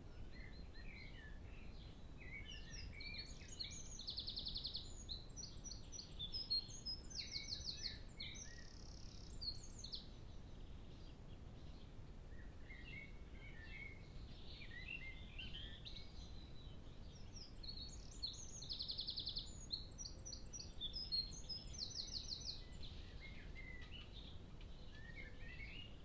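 A songbird singing two long, varied song phrases full of fast trills, one starting about two seconds in and another about halfway through, over faint low background noise.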